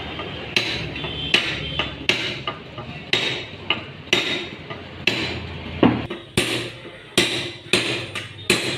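Hammer blows on metal, a steady run of ringing strikes about one to two a second, as parts are driven into place while reassembling a Maruti Swift Dzire manual gearbox.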